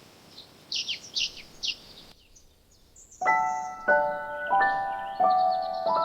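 A bird gives four short, quick, descending chirps in the first two seconds. From about three seconds in, slow piano notes are played, each struck and left to fade, with faint bird chirps above them.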